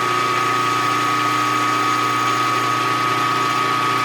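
Milling machine spindle running steadily while boring a bearing seat with a boring head: a steady high whine over a low hum.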